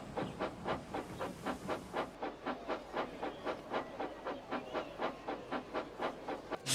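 Model train engine running, with a steady rhythmic beat of about five a second over a light hiss.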